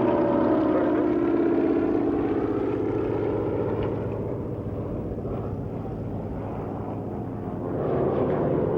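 Propeller airplane engine droning as the aircraft flies by. The drone dips through the middle and swells again near the end.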